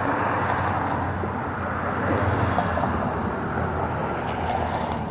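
Street traffic: steady noise of passing cars, swelling slightly as vehicles go by.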